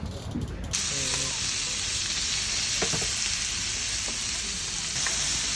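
Food frying in a hot pan: a steady sizzle that starts abruptly about a second in, with a few light taps.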